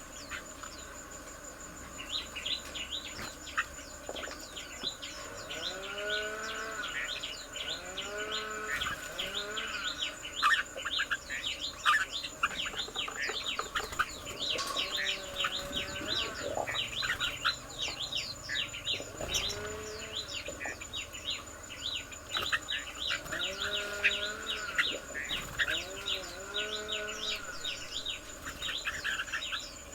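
Tropical garden soundscape: many birds chirping rapidly and continuously, with short runs of low, rising-and-falling animal calls every few seconds and a steady high insect-like drone.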